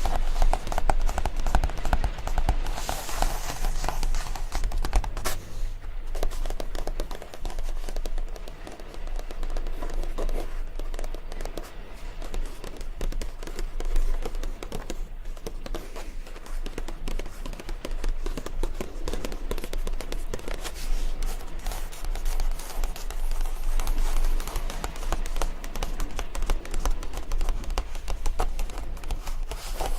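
ASMR tapping: many quick, closely spaced taps and clicks at a steady level.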